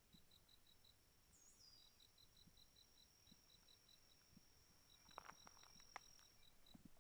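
Faint insect chirping, a cricket-like run of rapid, even high chirps at about six a second that stops and starts, over a thin steady high whine. A couple of sharp clicks, likely footsteps on the path, come about five to six seconds in.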